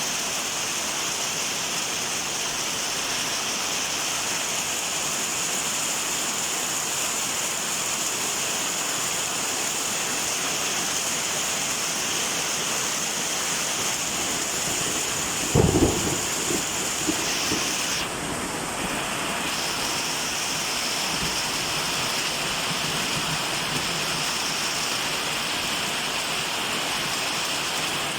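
Steady heavy rain falling, with a short, loud clap of thunder about halfway through that rumbles and dies away within a couple of seconds.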